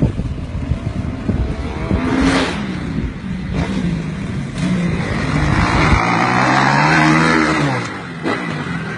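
Motorcycle engines revving, the pitch climbing and dropping repeatedly, with one longer, louder rev that rises and then falls about two-thirds of the way through.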